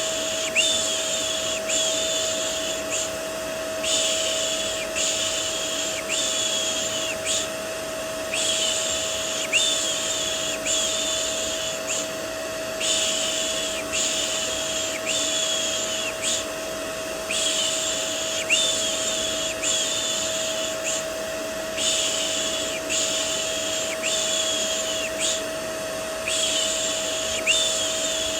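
Rhythmic 'shh' shushing for soothing a baby, repeated about once a second in runs of four or five with short pauses. It plays over the steady white noise of a running vacuum cleaner, which has a constant hum.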